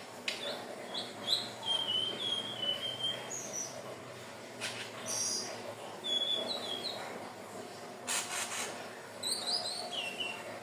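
Indigo flycatcher (sikatan ninon) singing: phrases of short, high, thin notes, some sliding down in pitch. A few brief rustling noises fall in between, the loudest about eight seconds in.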